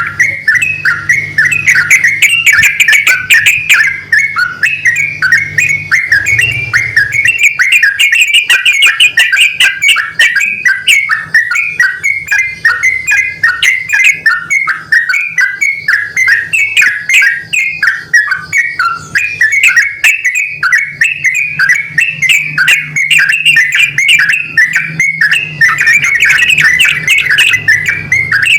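Yellow-vented bulbuls, a male and a female, answering each other in fast, continuous bubbly chattering notes.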